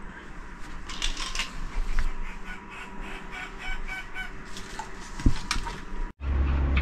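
A few short repeated calls, like fowl clucking, among light clicks and knocks. A low steady hum starts abruptly near the end.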